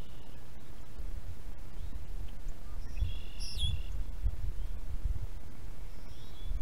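A bird calling in short chirps, a fuller call about three seconds in and fainter ones near the start and end, over a steady uneven low rumble of wind on the microphone.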